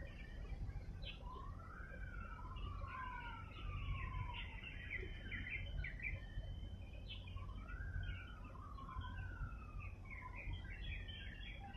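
Birds chirping, with a clear whistled call that slides up and then down in pitch, given twice in a row near the start and again twice a few seconds later, over a steady low rumble.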